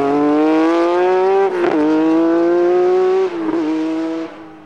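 Rally car engine accelerating hard through the gears: the pitch climbs steadily, drops at upshifts about one and a half and three and a half seconds in, then the sound fades away near the end.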